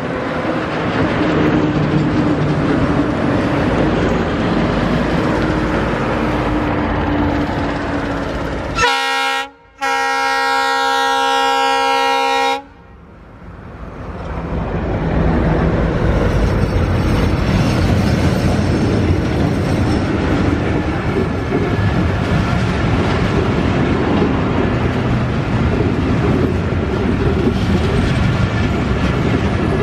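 Broad-gauge diesel locomotive hauling a commuter train, its engine running as it approaches, then sounding its multi-tone horn about a third of the way in: a short blast and then a longer one of about three seconds that cuts off sharply. After the horn the locomotive and coaches pass close, their wheels rumbling and clacking over the rails.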